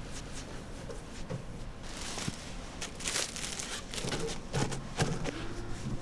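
Handling noises: scattered clicks and taps with brief scraping or rustling, busiest in the middle.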